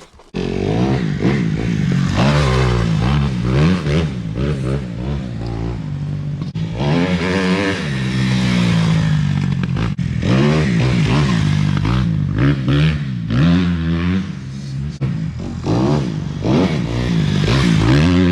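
Dirt bike engine running hard, its pitch climbing and falling again and again as the throttle is opened and closed.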